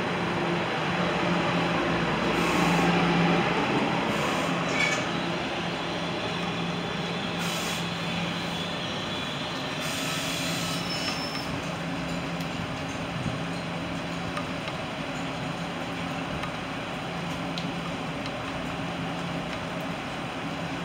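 New Jersey Transit double-decker commuter coaches rolling slowly past on the rails and easing to a stop, a steady rumble and hum that is loudest a few seconds in and then dies down, with a few short hisses along the way.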